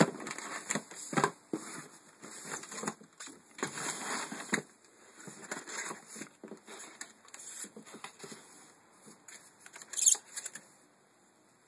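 Irregular rustling, clicking and scraping of cardboard and plastic packaging being handled as a box is opened, with a louder burst about ten seconds in.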